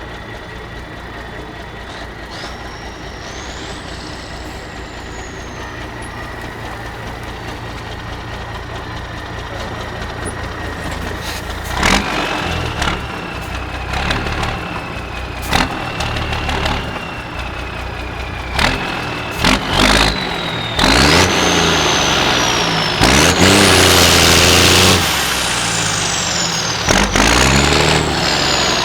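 Liaz 4x4 trial truck's diesel engine running low and steadily growing louder, then revving hard again and again from about halfway through, its pitch climbing and falling. The revving is loudest in the last third, with a few sharp knocks in between.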